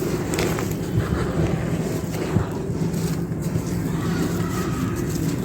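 A steady low rumble throughout, with a few sharp crunches of dry clay pot pieces being crumbled.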